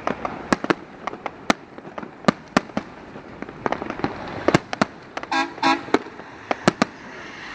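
Fireworks display: a rapid, irregular series of sharp bangs from exploding aerial shells, echoing off nearby buildings.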